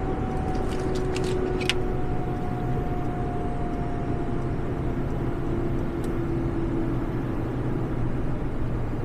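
Steady road and engine noise of a converted ambulance truck on the move, with a faint tone that slides slowly down in pitch and a few light clicks about a second in.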